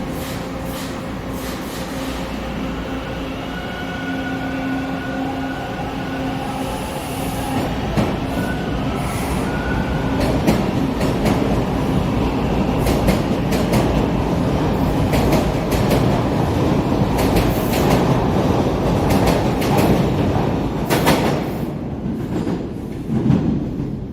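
TTC subway train moving along the station platform: a motor whine at first, then a loud rumble of wheels with rapid rail-joint clicks that builds through the middle and fades near the end.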